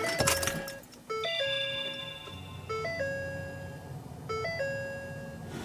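A 2014 Ford F-250's in-cab warning chime sounding with the ignition switched on: a short electronic phrase, a step up in pitch then a longer held note, repeating about every second and a half.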